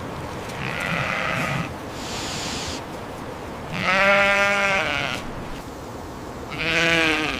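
An animal bleating a few times, with wavering calls; the loudest comes about four seconds in and another near the end, over a steady background hiss.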